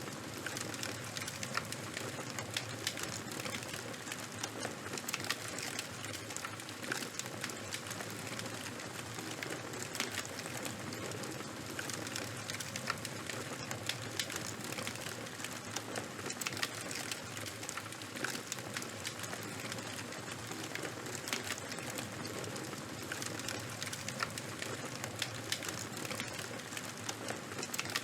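Fire crackling steadily: a constant hiss with frequent, irregular sharp pops and snaps.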